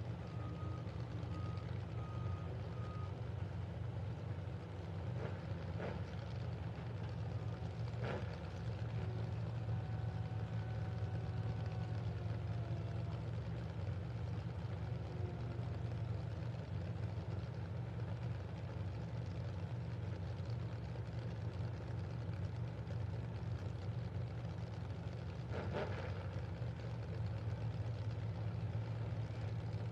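Demolition derby truck engines idling steadily, a low even drone. Near the start a piece of track equipment gives a run of short reversing beeps, and a few sharp knocks come later.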